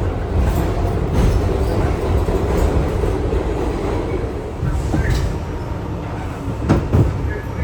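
New York City subway R62A train running along the track with a steady low rumble, with two sharp clacks close together near the end as the wheels cross a rail joint.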